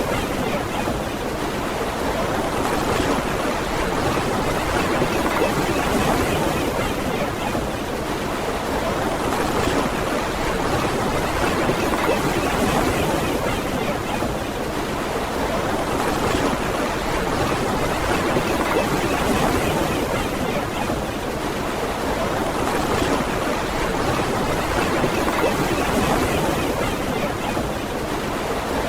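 Ocean surf washing onto a beach in a steady rush, swelling and easing gently every few seconds.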